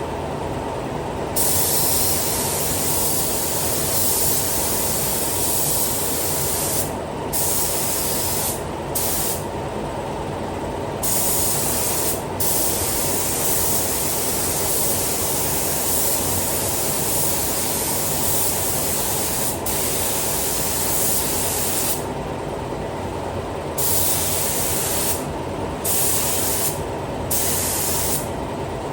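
Paint spray gun hissing as it lays down clear coat, in long passes of several seconds with the trigger released briefly between them, over a steady low drone.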